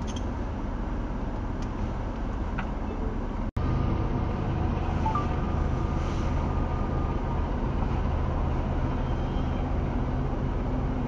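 Freight train of covered hopper cars rolling steadily past a level crossing, a continuous low rumble heard from inside a stopped car. The sound cuts out for an instant about a third of the way in, then goes on a little louder.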